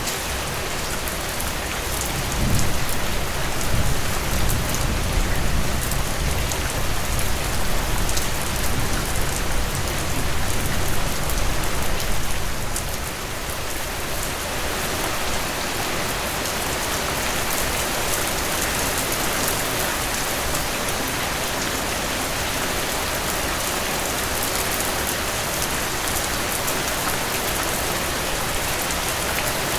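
Heavy rain falling steadily as a dense, even hiss. A low rumble of thunder rises about two seconds in and fades out near the twelve-second mark.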